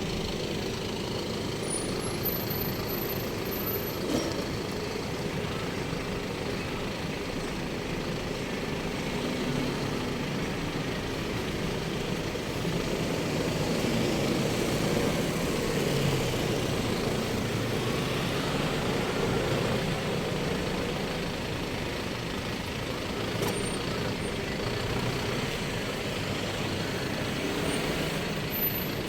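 Road traffic noise: trucks and other vehicles running steadily, a little louder around the middle.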